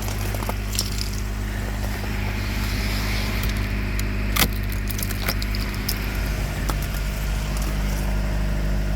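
An engine running steadily at idle, a low hum, with scattered sharp ticks and one louder crack about four and a half seconds in.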